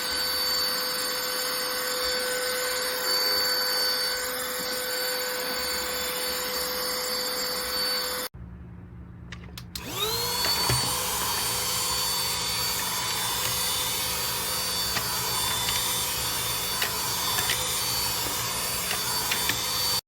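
Cordless stick vacuum cleaner running with a steady motor whine. It cuts off about eight seconds in, then after a short lull spins up again with a rising whine and runs steadily.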